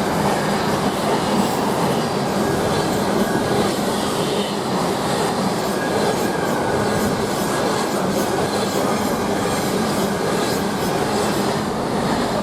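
Freight train hauled by a Class 66 diesel locomotive passing at speed: a steady rolling rumble of wagon wheels on the rails, with a faint continuous hum under it.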